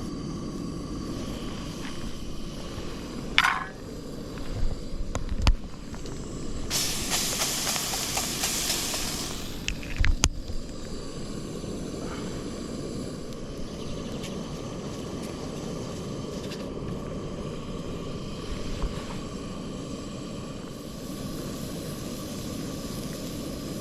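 Mushrooms frying in a pan on a Trangia spirit stove over a steady low rush. A few sharp knocks of a utensil against the pan, then a loud burst of sizzling lasting about three seconds, about a third of the way in.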